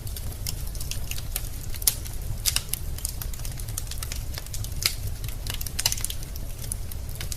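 Wood fire burning in a fireplace, logs crackling and popping in irregular sharp snaps over a steady low rumble of the flames.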